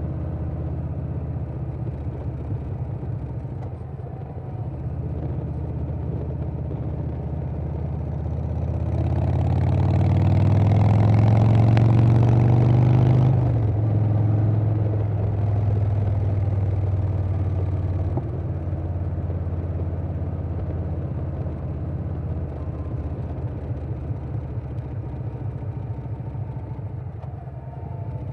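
Harley-Davidson Softail's Milwaukee-Eight V-twin running through a Vance & Hines Big Radius 2-2 exhaust. It runs steadily at low revs, then accelerates for a few seconds with rising pitch and a rush of wind. About halfway through, the throttle is closed and the sound drops off suddenly, then settles back to a steady, quieter run.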